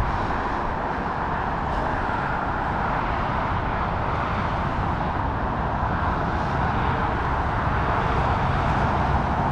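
Steady rushing wind noise on the microphone with a low rumble underneath, as on a bicycle moving along.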